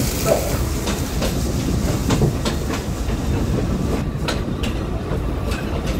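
Alishan Forest Railway hinoki-wood train rolling slowly along its narrow-gauge track, heard from on board: a steady low rumble with a scattered run of sharp clacks as the wheels cross rail joints.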